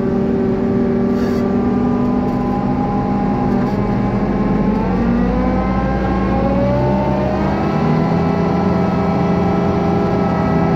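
Farm machinery engine running steadily under load, its pitch rising gradually about halfway through.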